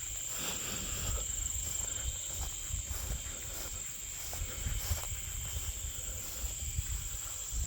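Insects singing in the grass, a steady high-pitched buzz that runs on without a break, with a low, uneven rumble beneath it.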